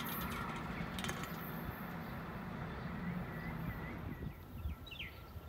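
The rumble of an Amtrak train that has just passed, fading away over the first few seconds. Near the end a bird calls with short falling chirps, about one a second.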